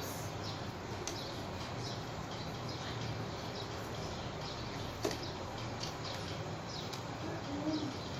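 Small birds chirping repeatedly over a steady background hum, with a couple of light clicks.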